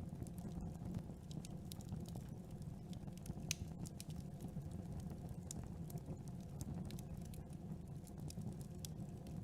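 Campfire burning: a steady low rush of the flames with irregular sharp crackles and pops of burning wood, one louder pop a little over a third of the way in.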